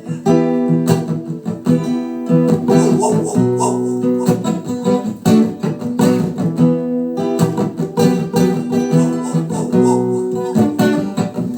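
Acoustic guitar strummed in a steady rhythm, playing chords in an instrumental passage between sung lines of a song.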